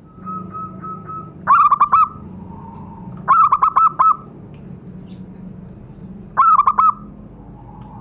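Zebra dove (perkutut) singing: a soft run of short notes, then three loud phrases of rapid, staccato cooing notes, over a low steady hum.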